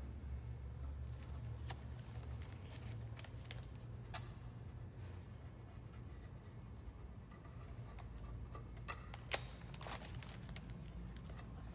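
Faint scattered clicks and rustles of masking tape being peeled and handled, over a steady low hum; one sharper click about nine seconds in.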